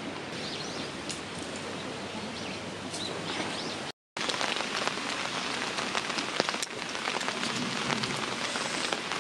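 Rain falling steadily, with many separate drops pattering close by in the second half. The sound breaks off for a moment about four seconds in.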